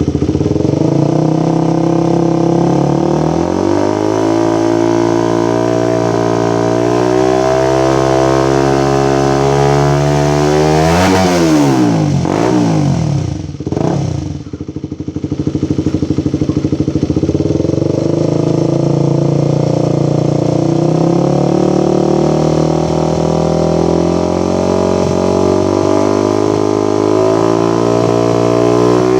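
Honda CBR150's single-cylinder four-stroke engine running through a Yoshimura aftermarket exhaust, mostly at a steady speed with slow drifts in pitch. About eleven seconds in the pitch rises sharply and falls again, and the sound briefly drops in level just after.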